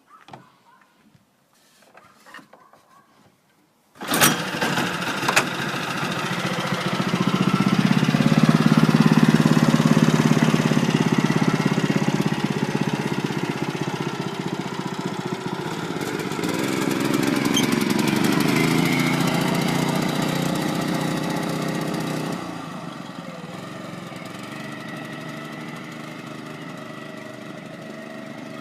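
Small gasoline engine of a mini car running: it comes in suddenly about four seconds in, rises and falls in speed twice, then settles to a quieter steady run for the last few seconds.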